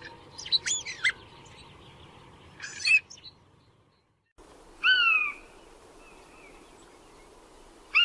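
Two different birds' calls spliced together. First come a few quick chirps and a short buzzy call. After a brief silent gap comes a clear, slightly falling call about five seconds in, repeated at the very end.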